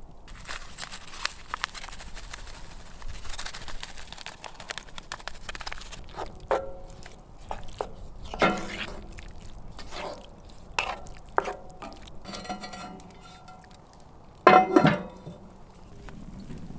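Metal utensil clinking and knocking against a pan or dish several times, with short ringing after each hit and the loudest clank near the end, over a faint steady hiss.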